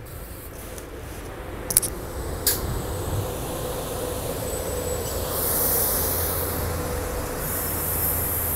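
SEPTA Regional Rail Silverliner IV electric train running in along the platform, its rumble growing steadily louder as it approaches and passes close by. A steady hum runs under it, two sharp clicks come about two seconds in, and a high hiss joins in the second half.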